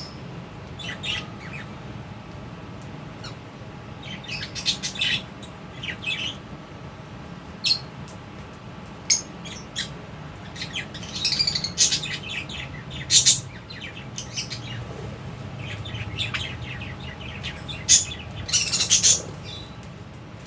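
Lovebirds in an aviary chirping: short, high-pitched chirps come in scattered bursts, with thicker clusters in the middle and near the end, over a steady low hum.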